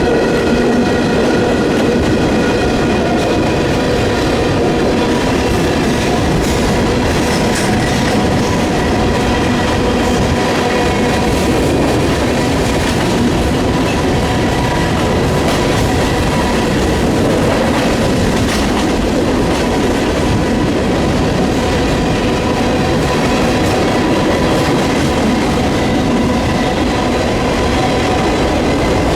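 Freight train rolling past, its railcar wheels clicking and rumbling over the rails, with steady tones ringing over the noise. Gusty wind buffets the microphone.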